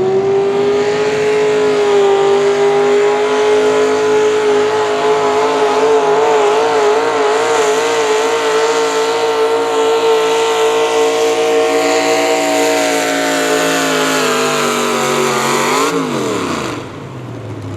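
Ford pulling truck's engine at full throttle during a sled pull, held at high revs with a slight waver for about sixteen seconds. Near the end the revs drop sharply as the driver lets off and the engine winds down.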